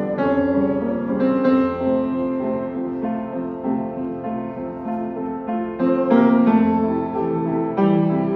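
Piano playing a slow, gentle passage of chords, each struck and left to ring, with new chords about every one to two seconds.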